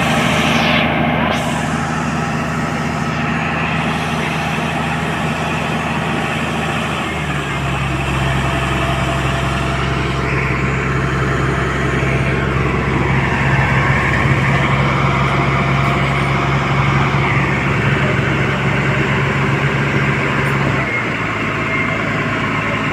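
Sand dump truck's diesel engine running steadily. About seven seconds in it revs up and holds there to drive the hydraulic hoist that tips the loaded bed, then drops back near the end.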